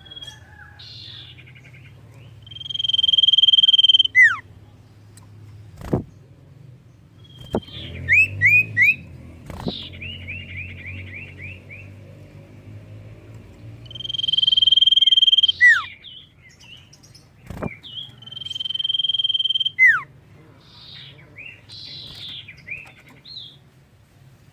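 Common iora (cipoh) singing: three long, steady high whistles, each ending in a quick downward slur, between runs of rapid repeated chirps. A few sharp clicks and a low steady hum lie underneath.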